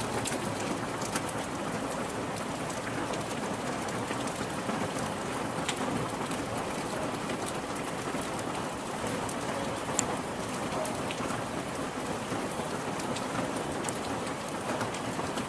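Steady rain falling on a hard surface, with a dense patter of individual drops ticking and one sharper drop about ten seconds in.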